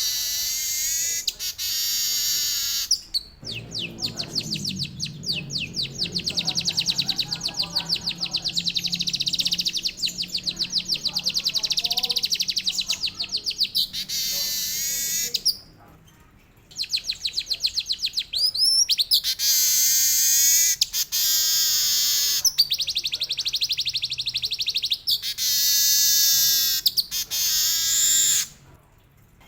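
Weaver bird (manyar) singing in long, very fast rolling trills mixed with canary-like phrases, in bursts of a few seconds with brief pauses between them.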